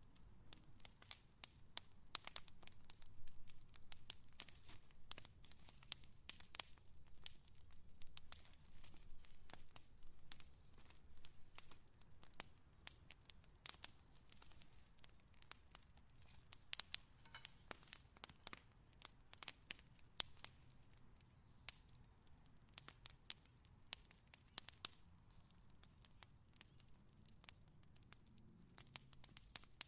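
Wood fire crackling: irregular sharp pops and snaps over a faint low rumble, busier in the first half.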